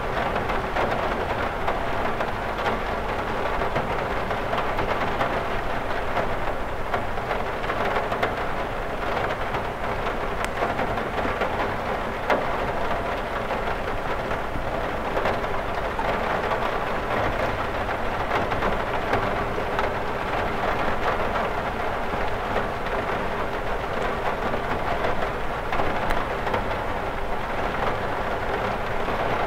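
Steady rain drumming on a window, a dense patter of many small drops.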